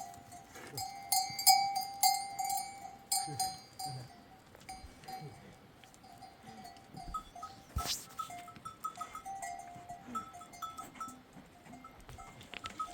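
Bells on a grazing flock of sheep and goats ringing irregularly, louder in the first few seconds; a second, higher-pitched bell joins about seven seconds in.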